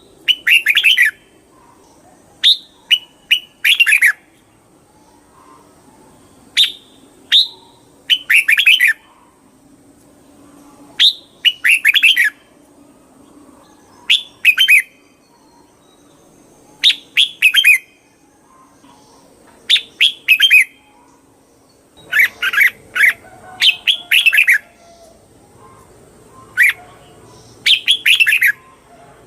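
Red-whiskered bulbul singing: short, loud whistled phrases repeated every one to three seconds.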